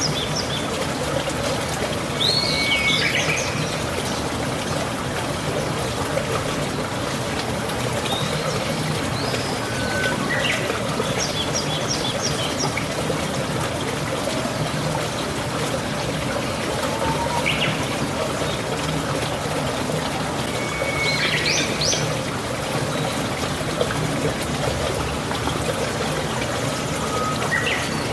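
Steady rain falling, an even hiss and patter throughout, with birds chirping briefly now and then, about five short bursts of calls.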